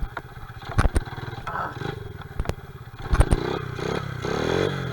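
Honda XR70R pit bike's small four-stroke single-cylinder engine running, with several sharp knocks in the first half, then revving up and down over the last second or so.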